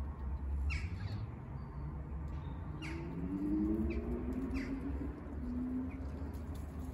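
Birds calling outdoors: three short calls, each sweeping down in pitch, about every two seconds, over a steady low rumble and a hum that slowly rises in pitch in the middle.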